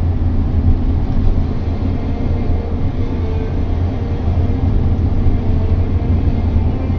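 Steady low rumble of engine and road noise heard from inside a moving vehicle's cabin.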